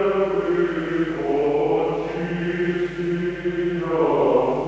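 Choir chanting in long, held notes over a steady low drone, used as the background music.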